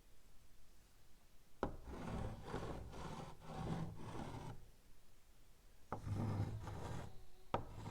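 Chalk writing on a blackboard. A sharp tap as the chalk meets the board comes about one and a half seconds in, followed by about three seconds of scratchy strokes. After a pause, another tap and a shorter run of strokes come near the end, with one more tap just before the end.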